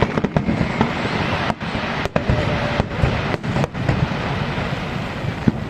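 Aerial fireworks bursting overhead in quick succession: dense crackling with several sharp bangs.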